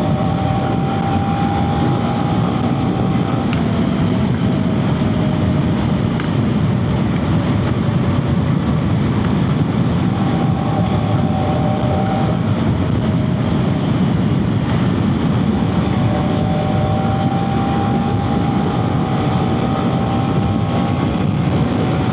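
Wind blast buffeting a helmet-mounted mic on a moving motorcycle, with the KTM Duke 250's single-cylinder engine note underneath, its pitch drifting slowly up and down with speed. The mic's wind reduction is off, so the wind comes through raw.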